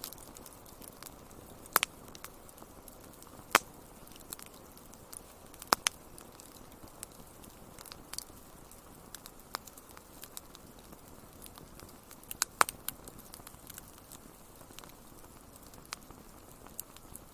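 Wood fire crackling: irregular sharp pops and snaps, a few of them much louder, over a low steady hiss of the flames.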